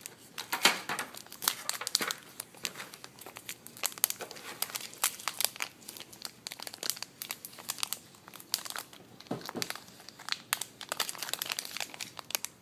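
A toy's cardboard box and packaging being handled and pulled open: irregular crinkling and rustling, with brief tearing sounds.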